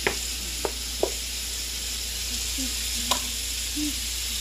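Shrimp sizzling in a hot frying pan: a steady hiss, with a few sharp clicks in the first second and another about three seconds in.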